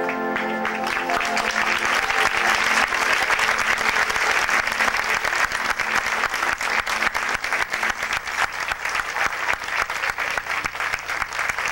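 A marching band's last held chord dies away about a second in and gives way to a large audience applauding.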